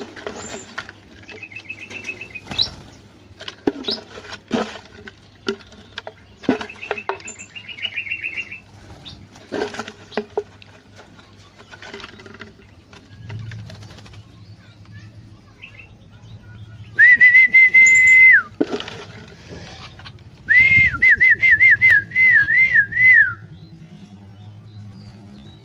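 Human whistling in clear held notes: one long steady whistle about two-thirds of the way in, then a wavering, warbled whistle a few seconds later. Softer short chirps and wing flutters from the caged bulbuls sound between them.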